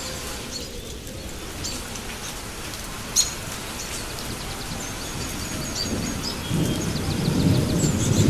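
Steady rain with high chirps over it and one sharp crack about three seconds in. Low thunder rumbles up in the last two seconds and grows louder.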